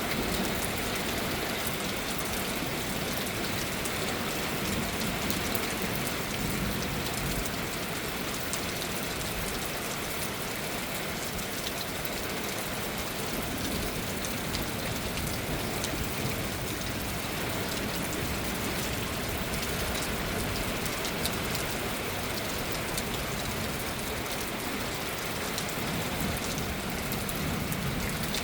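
Wind gusting through elm trees, the leaves rustling in a steady dense hiss with fine crackling ticks, and a low, uneven rumble from the gusts.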